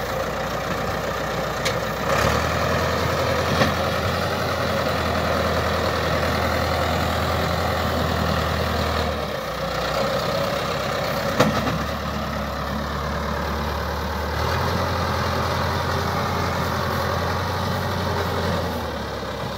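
Tractor engine running steadily, its note growing heavier about two seconds in, easing off around nine and a half seconds, building again around fourteen and a half seconds and dropping back near the end. A few sharp knocks, the loudest around eleven seconds.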